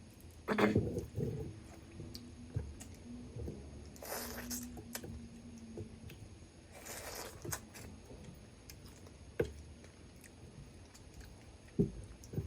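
Close-up eating sounds: chewing and crunching of a mud crab meal, with scattered sharp clicks and two short noisy bursts about four and seven seconds in.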